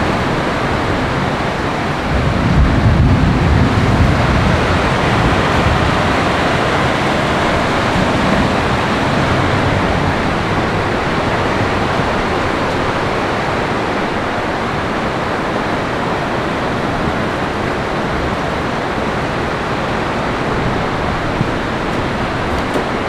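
Steady, loud rushing of heavy thunderstorm rain. A low rumble swells about two seconds in and fades over the next few seconds.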